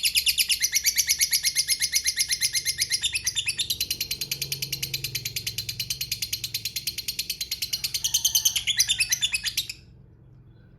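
Lovebird giving its long 'ngekek' call: a fast, even run of shrill chattering chirps, more than ten a second, that breaks off abruptly near the end.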